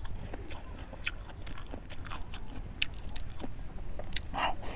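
A person chewing and eating close to a clip-on microphone: short wet clicks and smacks of mouth sounds come irregularly throughout, with a denser patch of mouth noise about four seconds in.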